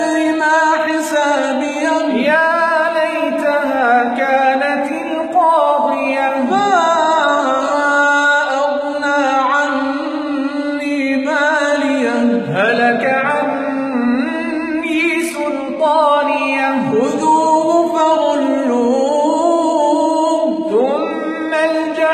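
A young man's voice reciting the Quran unaccompanied in melodic tajwid style, drawing out long ornamented notes that glide up and down, with short breaths between phrases.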